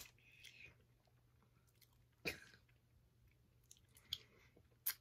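Mostly near silence with faint mouth noises of someone chewing a very sour taffy: a few soft clicks and smacks, with one sharper, louder noise about two seconds in.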